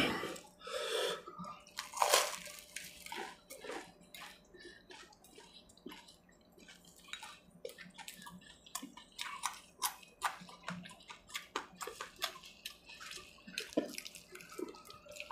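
Close-up eating sounds of a flaky puff-pastry patty: crunching and chewing with wet mouth noises, and many short, sharp crackles as the pastry is broken by hand, with the loudest crunches in the first couple of seconds.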